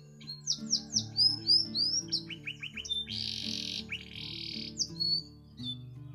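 Domestic canary singing a long varied song: a run of quick downward-sweeping whistles, a fast trill, then two harsh buzzy rolls in the middle before more whistled notes, over soft background music with steady low notes.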